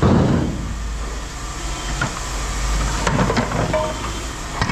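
Steady low engine or machinery rumble, with a few short knocks and clinks from metal being handled.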